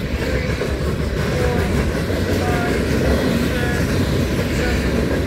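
Loaded coal hopper cars of a long freight train rolling past on steel wheels: a steady, low rumble, with a few brief faint squeals.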